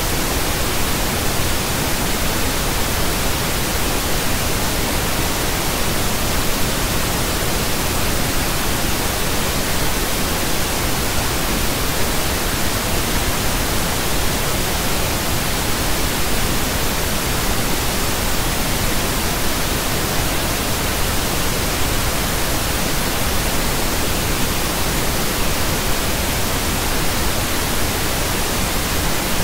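Steady pink noise: an even, unchanging hiss spread across the whole range of pitch, with no tones or events in it.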